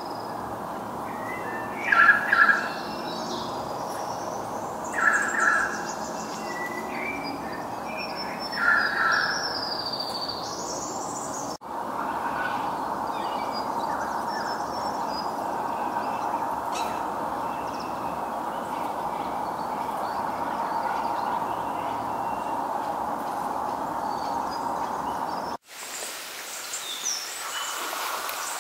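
Birds calling in a wetland over a steady background noise, with three louder short calls in the first ten seconds and scattered higher chirps. The sound breaks off abruptly twice, where the clips are cut together.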